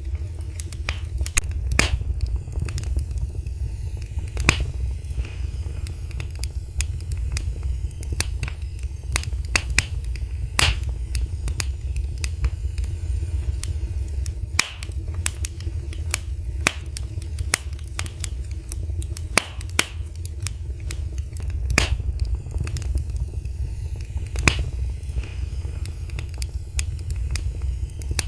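Wood fire in a fireplace crackling: irregular sharp pops and snaps scattered over a steady low rumble of the flames.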